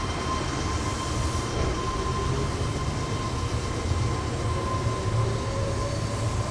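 Meitetsu electric train running through the station: a steady low rumble with a thin steady tone over it, and a faint rising motor whine near the end.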